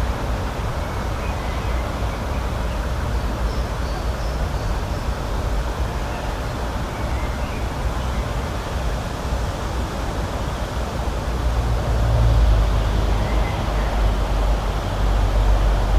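Outdoor nature ambience: a steady rushing noise over a low rumble that swells two-thirds of the way through and again near the end, with a few faint, high bird chirps scattered through it.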